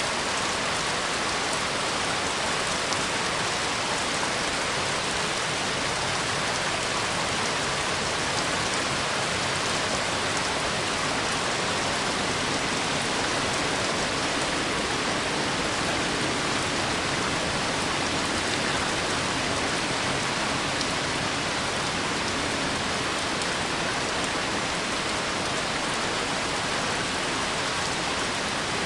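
Steady heavy rainfall, a dense even hiss of drops striking surfaces with no let-up.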